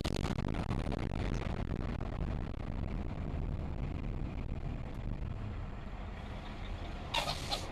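Car driving, with a steady low rumble of engine and road noise picked up by a dashboard camera. A short burst of hissing noise comes near the end.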